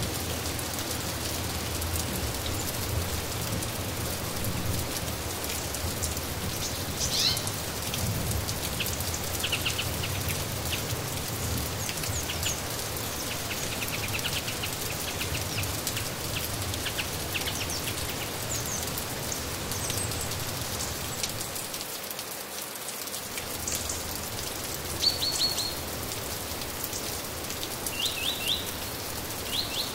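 Steady rain falling, with birds chirping now and then over it: short high chirps, a few at a time, more of them in the second half.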